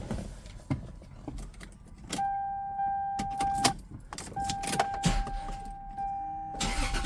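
Car keys jangling and clicking at the Lexus SC300's ignition while a steady electronic warning tone from the car sounds twice: once for about a second and a half, then again from about four seconds in.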